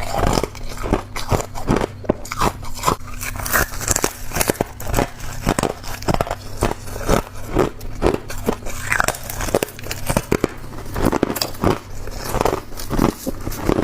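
A person biting and chewing crunchy frost: dense, irregular crunching and crackling.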